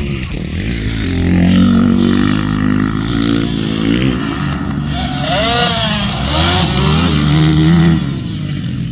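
Motocross bike engines revving hard on track, the pitch climbing and dropping again and again as the riders open the throttle and shift. It is loudest about a second and a half in and again near the end.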